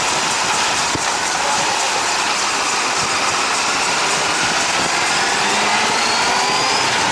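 Honda CBR600RR inline-four motorcycle being ridden, heard through a helmet-mounted camera with heavy wind and road noise; the engine's pitch rises over the last few seconds.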